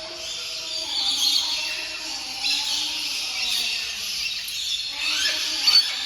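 Birds calling: a steady mix of high-pitched squeals and chirps, with a few quick sharp chirps near the end.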